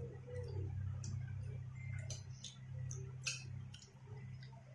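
Tortilla chips crunching as nachos are chewed: irregular sharp crackles and clicks, several a second, over a steady low hum.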